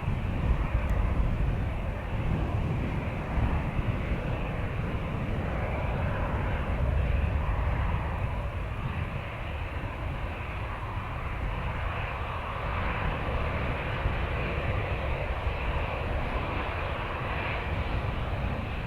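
Jet airliner engines heard from the ground: a steady deep rumble with a hiss on top.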